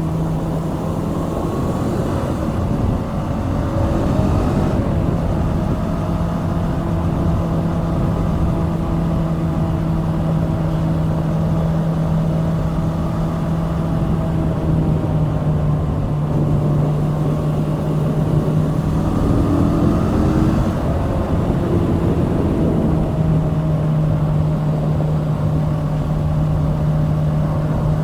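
Kawasaki Z650's liquid-cooled 649 cc parallel-twin engine running at steady cruising revs on the move, with wind noise underneath. The engine note changes briefly about three seconds in and again about twenty seconds in, then settles back to a steady pitch.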